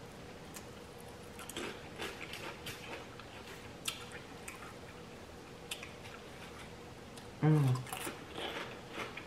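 Potato chips being bitten and chewed, a scatter of small crunches and mouth clicks. A short falling "mm" hum from the eater comes about seven and a half seconds in.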